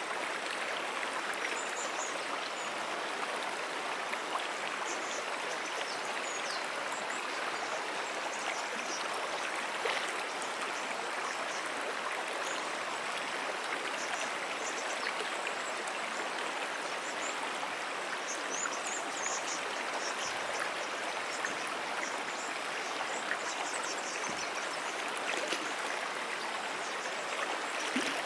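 Shallow brook flowing steadily over stones, an even rushing and trickling of water. Short, faint, high chirps are scattered over it.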